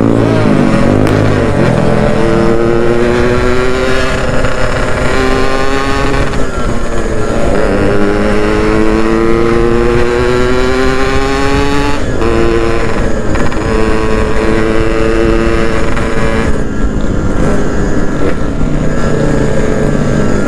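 Yamaha RX-King single-cylinder two-stroke engine running while being ridden, its pitch climbing steadily under acceleration and dropping back at gear changes about six and twelve seconds in, then holding at a cruise. The owner says the engine has lost compression and is due for an oversize rebore.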